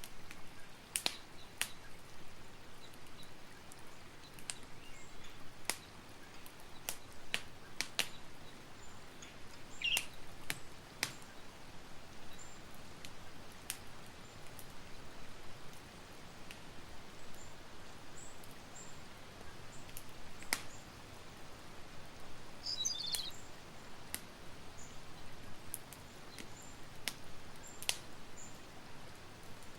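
Campfire crackling, with sharp pops scattered irregularly over a soft steady hiss. A few faint bird chirps come through, the clearest a little past the middle.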